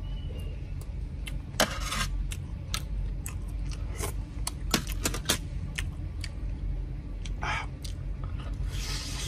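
Crunching and chewing of crispy deep-fried crocodile head, with many sharp clicks and a few longer crunches, over a steady low hum.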